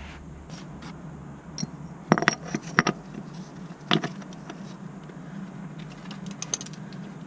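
Sharp metallic clinks: a quick cluster about two seconds in and a single one near four seconds, over a steady low hum.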